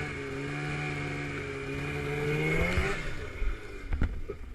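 Snowmobile engine running at a steady high speed, creeping slightly higher in pitch, then dropping away and cutting off about three seconds in. A few sharp knocks and thumps follow near the end.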